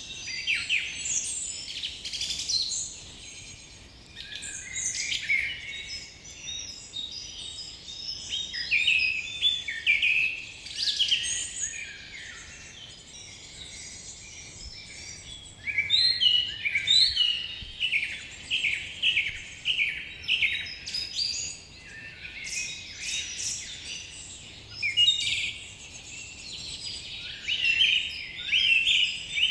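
Many birds chirping and calling at once, a dense chorus of short high calls and trills that overlap each other, with a quieter stretch about halfway through.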